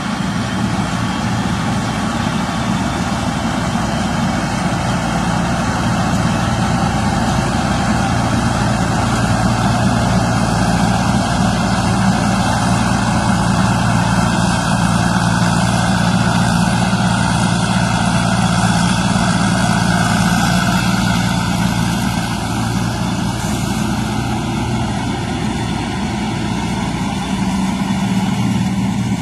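Combine harvester running steadily: an even engine hum with a broad mechanical clatter over it, a little louder through the middle.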